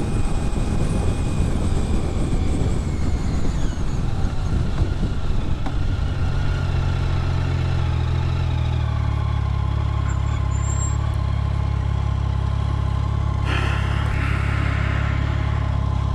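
Motorcycle riding with wind rush on the helmet microphone, then slowing and settling into a steady idle about six seconds in. A short hiss comes near the end.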